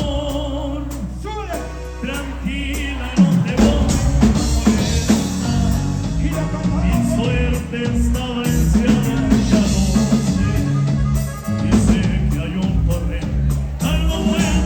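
Norteño band music in an instrumental passage: a wavering melody over bass and drums. A held low note opens it, and the full band with bass and drums comes in about three seconds in.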